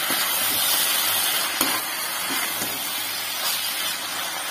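Brinjal pieces sizzling in groundnut oil in a kadai: a steady frying hiss, while a ladle stirs them, with a faint scrape about a second and a half in.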